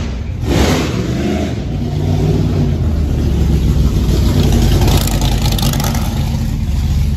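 Loud car engine running with a deep note, the revs picking up briefly about four to five seconds in.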